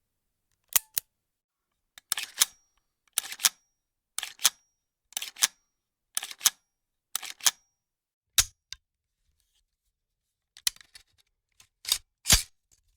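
Weapon mechanism being worked: sharp metallic clicks and clacks, mostly in pairs, about once a second, with a short pause before a last few clacks near the end.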